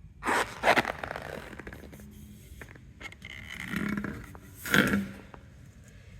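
Handling noises: several short rubbing and scraping sounds, the loudest just after the start and one near the end, with a longer scrape in between.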